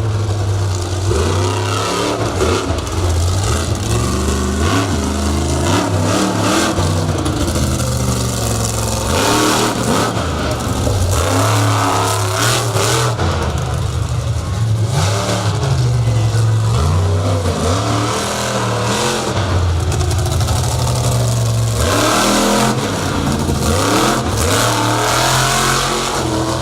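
Monster truck engine revving hard during a freestyle run, its pitch climbing and dropping again and again as the throttle is opened and closed.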